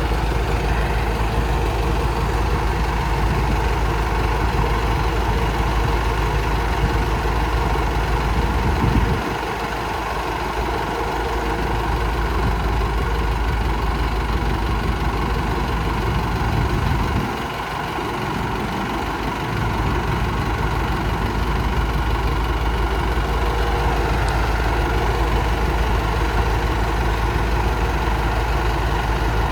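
Heavy diesel engine of the excavator and tractors running steadily. Its low rumble eases twice for a couple of seconds, about a third of the way in and again a little past halfway.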